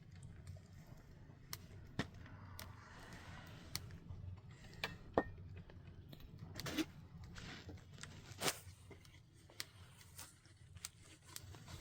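Scattered light clicks and knocks at irregular intervals over a low steady hum, the sharpest about 5 s and 8.5 s in.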